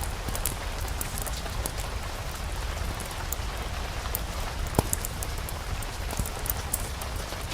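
Steady rain with many small drop ticks over a low steady rumble, and one sharper pop about five seconds in.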